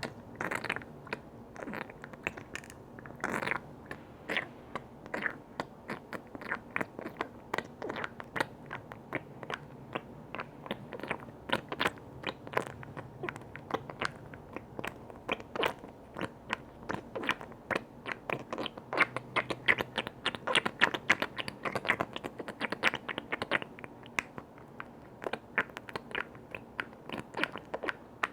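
Fingers tapping and clicking on container lids in a quick, irregular run of sharp taps, several a second, growing busier and louder past the middle.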